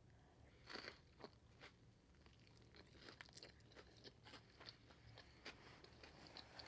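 Faint close-up chewing of a mouthful of nem nuong fresh spring roll wrapped in rice paper: small irregular crunches and wet mouth clicks.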